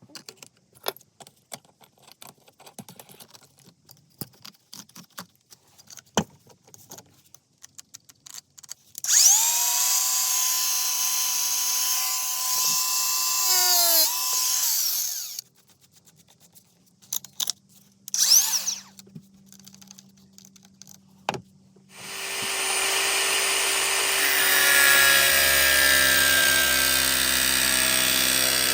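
Parkside Performance PWSAP 20 Li C3 cordless angle grinder. After some light clicks it runs with a steady whine for about five seconds, then spins down, falling in pitch. It gives a short burst, then starts again and runs steadily with a harsher, noisier sound.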